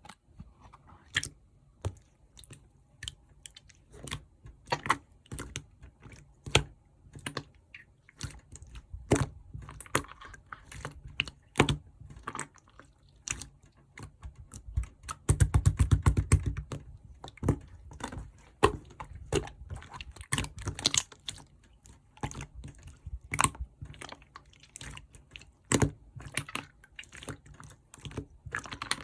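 Orange clear slime being squeezed and poked by hand, giving irregular sticky clicks and pops, with a dense run of crackling pops about halfway through.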